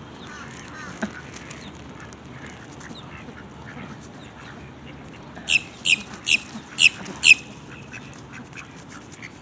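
Ducks quacking, with softer calls scattered throughout and a run of about six loud quacks in quick succession about five and a half seconds in.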